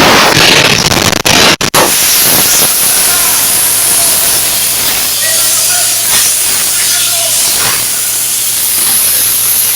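Air carbon arc gouging: the arc and compressed-air jet of the carbon-electrode torch make loud, dense noise with brief breaks, then stop about two seconds in. A steady hiss of air with a low hum follows.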